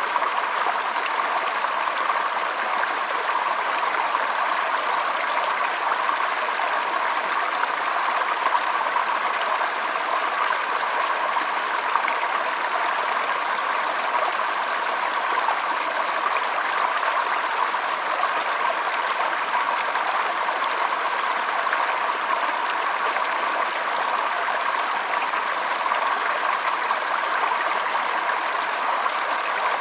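Shallow stream flowing steadily: an even, unbroken trickling rush of water.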